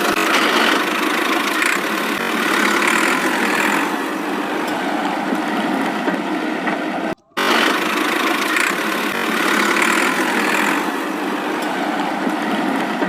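A steady engine running sound as a toy tractor is driven off with its load. It breaks off for an instant about seven seconds in, then starts again.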